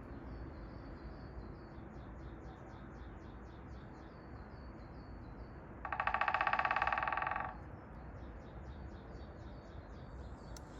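Songbird repeating short high chirps, a few a second, over a steady low hiss of the wet forest. About six seconds in, a louder buzzy, rapidly pulsed call cuts in for about a second and a half.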